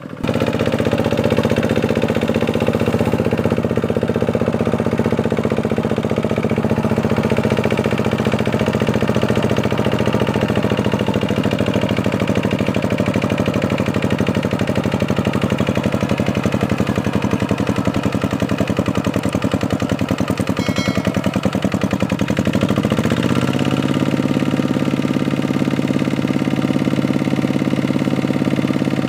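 Kubota tractor's diesel engine running at a steady speed while ploughing a muddy paddy field. About three quarters of the way through, it speeds up over a second and settles at a higher steady pitch.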